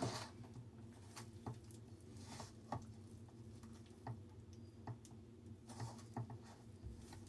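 Wet dango dough being mixed in a bowl: faint, irregular soft squishes and light taps. The dough is getting watery from the extra water just added.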